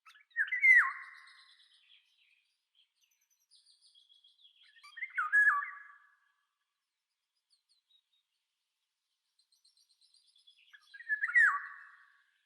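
A songbird calling three times, about five seconds apart. Each call is a short note that drops in pitch, with fainter, higher chirps in between.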